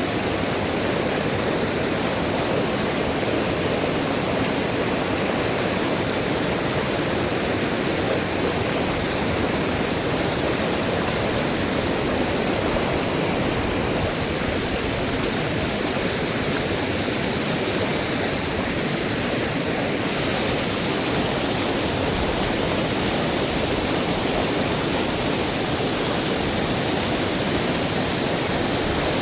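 Fast-flowing, rising river water rushing steadily.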